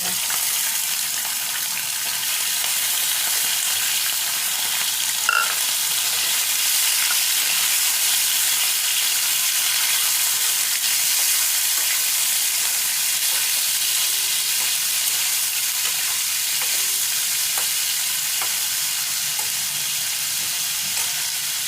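Chicken pieces sizzling in hot oil in a frying pan: the hiss starts abruptly as the chicken goes in and then holds steady. There is a single knock about five seconds in.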